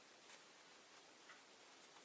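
Near silence: faint steady hiss with a few soft, short ticks.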